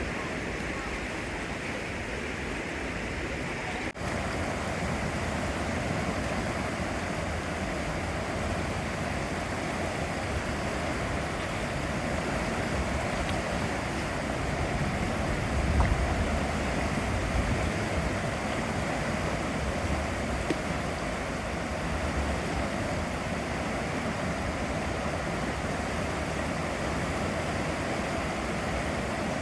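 Swollen Kano River in spate after a typhoon: a steady rushing of fast floodwater. A few low buffets of wind on the microphone come midway, and the sound breaks briefly about four seconds in.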